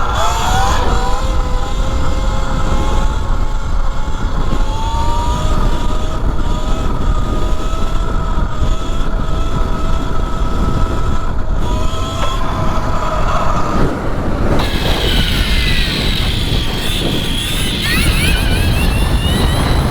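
E Ride Pro SS electric motorbike's motor whining under way, over heavy wind rush on the microphone. The whine climbs slowly in pitch, then from about three-quarters of the way through it shifts higher and sweeps up and down with the throttle.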